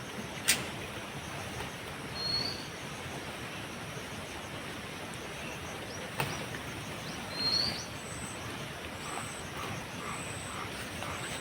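Birds giving short rising chirps and brief high notes over a steady outdoor hiss, with a sharp click about half a second in and another about six seconds in.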